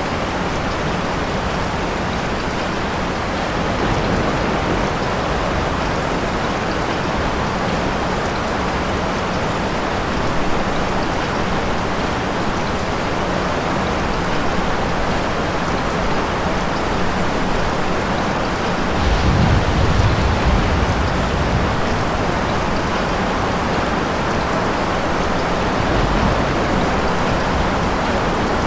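Steady, heavy rain, with a low rumble of distant thunder about two-thirds of the way through and a fainter one near the end.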